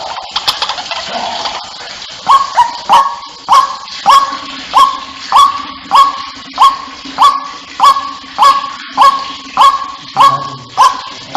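White-breasted waterhen calling over and over: a harsh, rising note repeated about every 0.6 seconds, some fifteen times, after a more jumbled start. It is the ruak-ruak lure call used to draw waterhens in.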